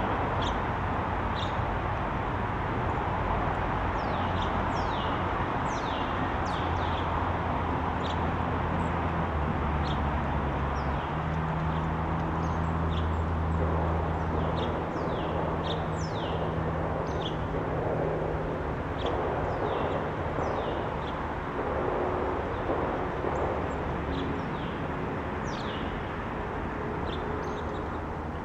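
Small birds chirping again and again, short high notes that sweep downward, over a steady background hiss. A low hum swells for several seconds in the middle.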